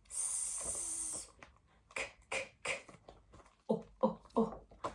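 A woman's voice making phonics letter sounds: a long hissing sound of about a second, then short clipped letter sounds repeated several times in quick succession.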